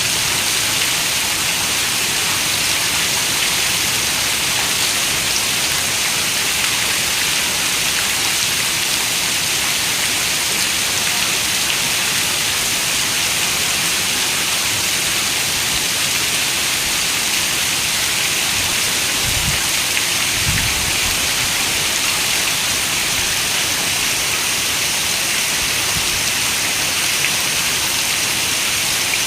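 Steady rain: a dense, even hiss of falling drops. About two-thirds of the way through come two brief low rumbles.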